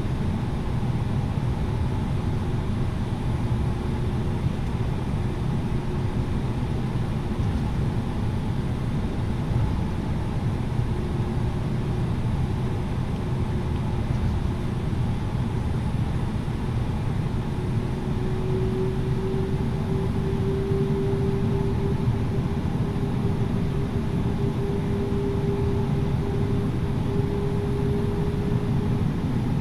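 Cabin noise of an Airbus A330-900neo taxiing: a steady low rumble from its Rolls-Royce Trent 7000 engines at low power and the air-conditioning, with a steady hum that grows louder and rises slightly about eighteen seconds in.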